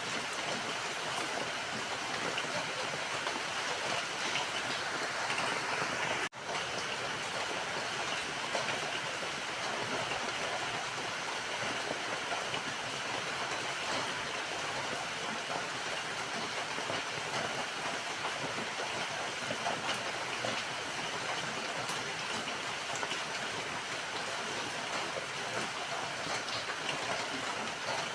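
Steady rain falling, an even hiss of many drops, with a momentary break about six seconds in.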